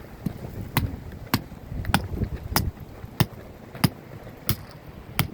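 Sharp knocks at an even pace, about one every 0.6 seconds, over the low rumble of strong wind.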